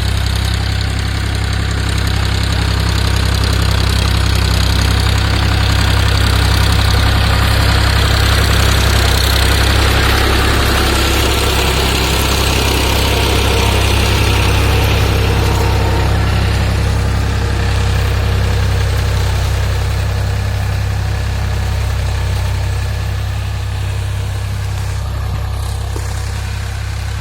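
Tractor engine sound running steadily at idle, with a strong low hum and a slight swell partway through.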